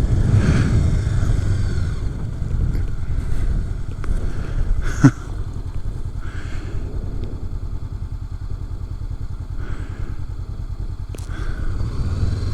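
Honda CB500X's parallel-twin engine running steadily, a dense low pulsing, a little louder at the start. About five seconds in there is a brief sharp falling sound.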